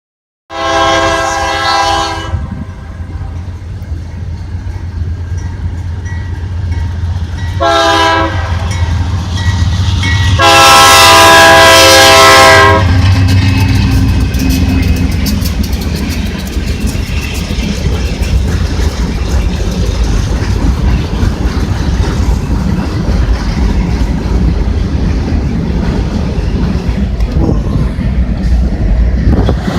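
Union Pacific coal train locomotive sounding its multi-chime air horn three times: long, short, long. Under the horn is the rumble of the diesel engines. Then the long string of coal hoppers rolls past with a steady clatter of wheels over the rail joints.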